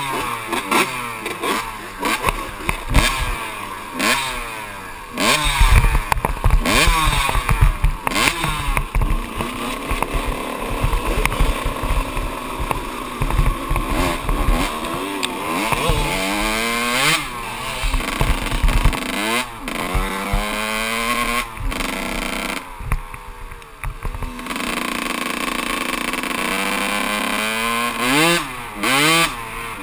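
Kawasaki KX125 two-stroke dirt bike engine under hard riding, its pitch climbing and dropping back again and again, with knocks and clatter from the bike. Near the end it holds a steadier, lower note for a few seconds before climbing again.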